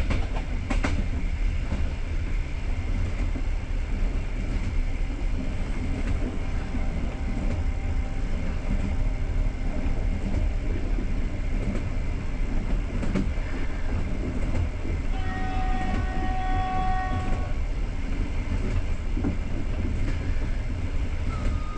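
Passenger train running at speed, heard from aboard: a steady low rumble of the coach and wheels on the rails. About fifteen seconds in, a train horn sounds once for about two seconds.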